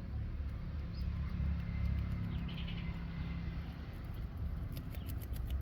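Grasscutters (cane rats) feeding, with faint scattered crunching clicks and rustling over a steady low rumble.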